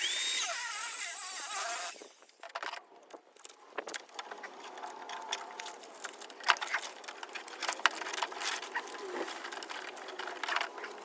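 Angle grinder with a fresh cutoff disc spinning up with a rising whine and cutting into the copper windings of a welder transformer for about two seconds, then stopping. It is followed by scattered clinks and knocks of metal being handled.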